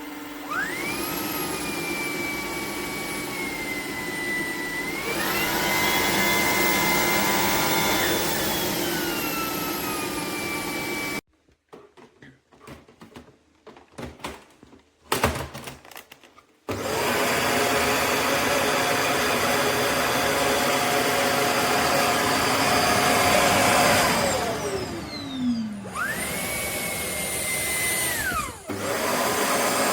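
Shark PowerDetect cordless vacuum's motor running with a high whine that steps up in pitch about five seconds in. It cuts off suddenly, a few clicks and knocks follow, and then it starts again. It winds down with a falling pitch and starts and stops briefly near the end.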